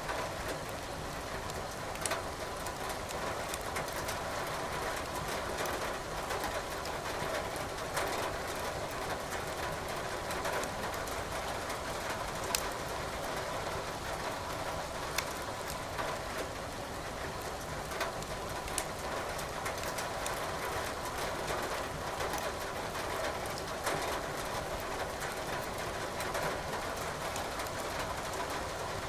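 Steady rain with wood crackling in a fireplace, sharp pops every few seconds over the even hiss of the rain.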